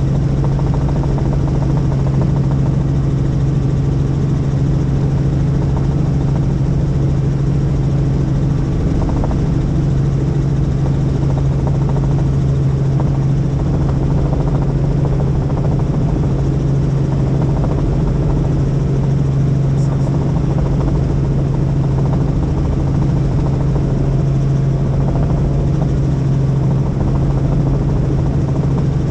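Helicopter in flight, its rotor and engine making a loud, steady, even drone with a strong low hum that does not change.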